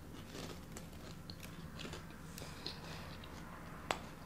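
Faint close-miked chewing of fast food, with small crunches and wet mouth clicks, and one sharp click near the end.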